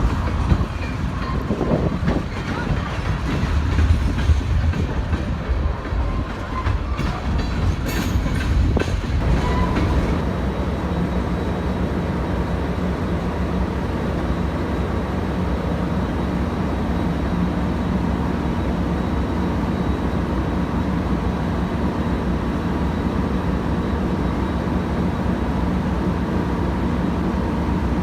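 A train running on the track, with scattered clicks of wheels over rail joints in the first ten seconds, then a steady low drone.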